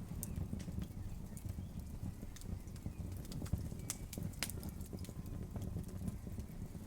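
Campfire crackling, with irregular sharp pops and snaps, the loudest about four seconds in, over a steady low rushing of river water.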